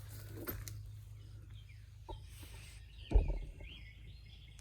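A few knocks from metal chair parts being handled, the loudest about three seconds in, over a steady low hum, with faint bird calls in the background.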